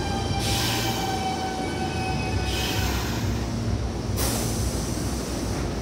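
Red Meitetsu express train pulling into the platform and slowing to a stop: a steady rumble with a whine that sinks a little and fades, thin high brake squeal, and three spells of hiss.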